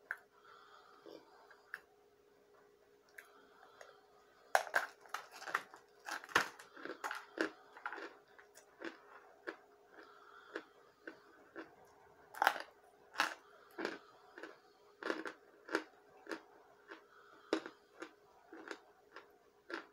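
Chunks of compressed cornstarch being bitten and chewed: a run of sharp, irregular crunches that starts about four and a half seconds in and goes on at one or two a second.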